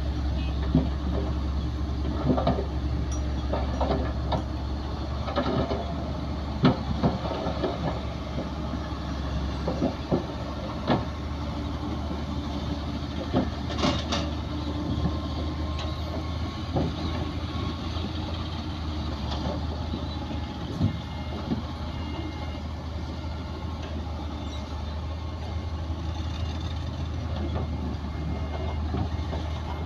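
Heavy diesel engines of earthmoving machines running steadily, with scattered metallic clanks and knocks throughout.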